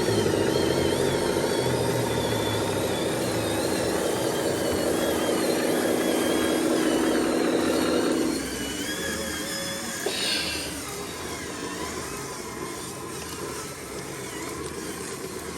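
Heavy truck's diesel engine running hard under load, then dropping off sharply about eight seconds in to a quieter running sound. A thin, wavering high whine sits above it for the first half.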